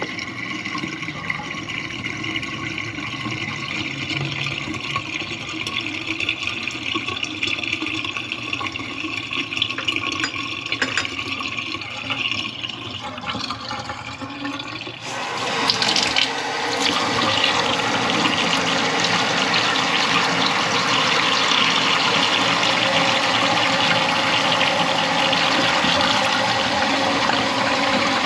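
Water running in a kitchen sink, a steady splashing flow that turns suddenly louder and fuller about halfway through and stays that way.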